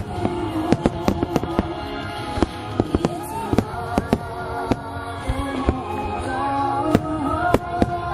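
Fireworks shells bursting in quick succession, sharp bangs several times a second, over the music that accompanies the display.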